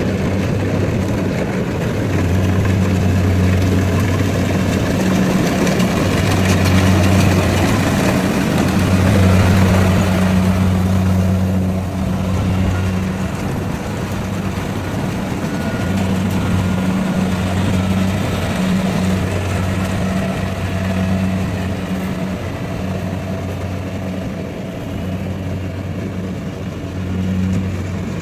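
Rice combine harvester's engine running steadily: a low, even hum with a dense layer of mechanical noise over it, swelling and easing slightly at times.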